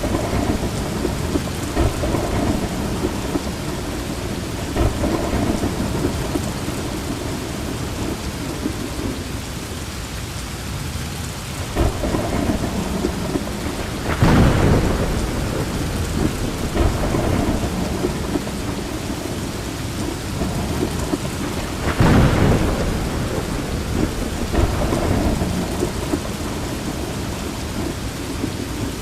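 Heavy rain falling steadily, with thunder rumbling through it several times; the loudest rolls come about halfway through and again about three-quarters of the way in.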